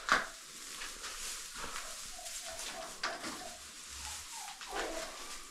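Hay rustling as it is spread on a shed floor, with faint short calls from poultry in the middle and a couple of light knocks.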